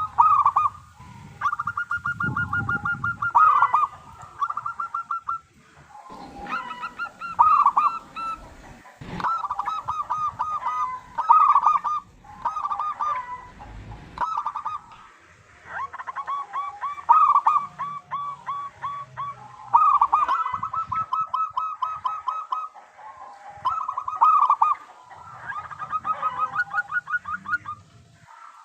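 Zebra doves cooing: repeated bouts of rapid, stuttering notes, each bout lasting a second or two with short pauses between them, sometimes overlapping.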